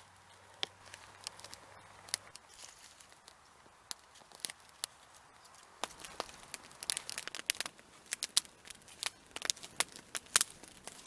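Small wood fire of dry split sticks catching and crackling: scattered pops at first, then from about six seconds in a quick, dense run of sharp crackles as the kindling takes.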